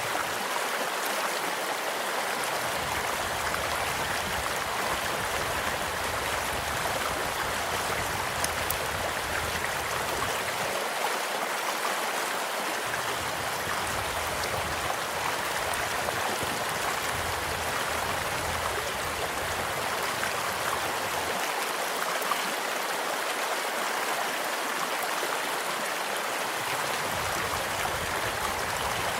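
Stream flowing steadily over stones, an even rushing and trickling, with a few faint pops from a crackling campfire.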